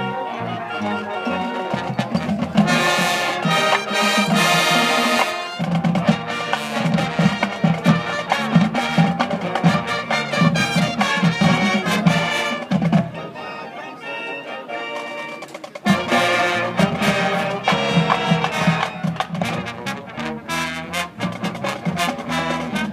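Marching band playing, brass to the fore over a low brass bass line. The full band swells louder about three seconds in and again about sixteen seconds in.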